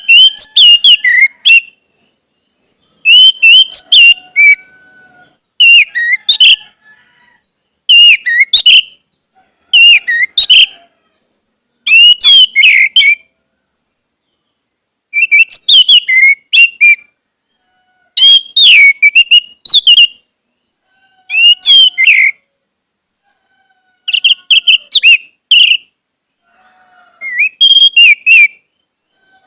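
Orange-headed thrush (anis merah) singing: about eleven short, loud phrases of quick whistled notes that glide up and down, each lasting a second or two, separated by brief silences.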